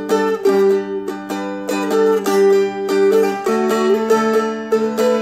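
Seagull Merlin, a four-string fretted dulcimer-style instrument, played with picked melody notes over ringing drone strings: a run of plucked notes a few tenths of a second apart, with the chord shifting about three and a half seconds in.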